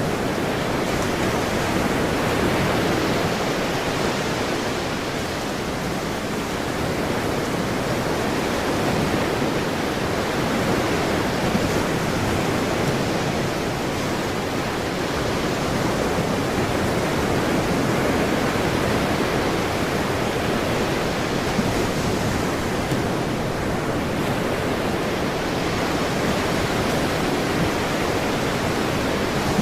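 Ocean waves washing ashore in a steady wash of surf, rising and falling gently every few seconds.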